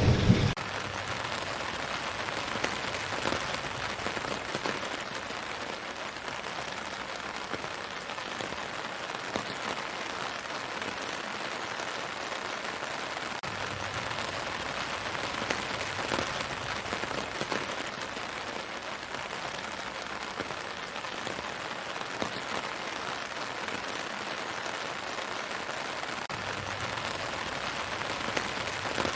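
Steady rain falling on leaves and ground: an even hiss with scattered drops ticking. A louder passage with a thunder rumble cuts off abruptly right at the start.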